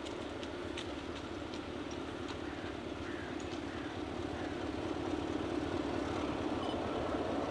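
Class 33 diesel-electric locomotive's Sulzer eight-cylinder engine running under power, a steady drone that grows slowly louder as it draws nearer, with scattered clicks from the wheels on the rails.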